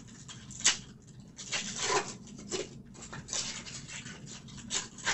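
Trading cards and their pack being handled: irregular rustling and sliding swishes, with a sharp click about two-thirds of a second in.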